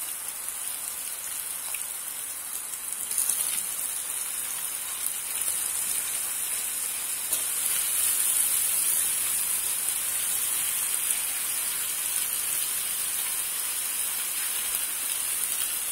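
Raw chicken pieces sizzling in hot oil and fried spice paste in a pot, a steady hiss that gets a little louder a few seconds in.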